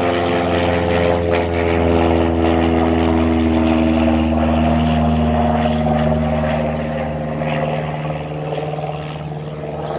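Cessna 172 Skyhawk's four-cylinder piston engine and propeller running at power as the plane passes by, loudest a few seconds in. Its pitch drops gradually as it goes by, then it fades somewhat.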